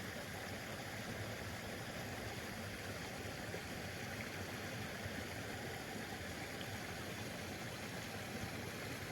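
Steady rushing of a flowing woodland stream, even and unbroken.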